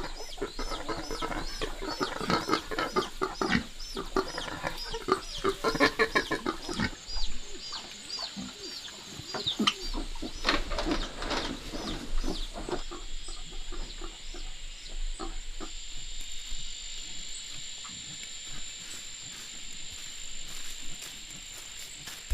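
Chickens clucking, with a stream of short high peeps from chicks. The calls are busiest in the first several seconds, then thin out to scattered clucks over a steady high whine.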